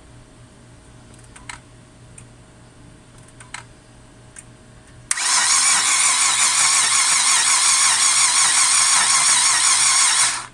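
A few faint clicks, then the Chevrolet Epica's starter motor cranking the engine hard for about five seconds without it catching, and stopping abruptly: the car's hard-starting problem.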